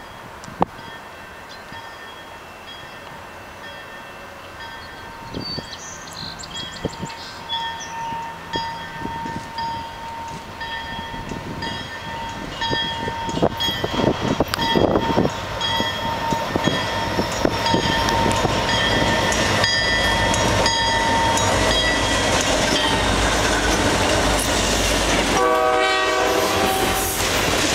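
Canadian Pacific freight train approaching behind its diesel locomotives: the locomotive horn sounds several times, on and off, as the train nears, and the low engine rumble grows louder until the locomotives pass close by in the last third.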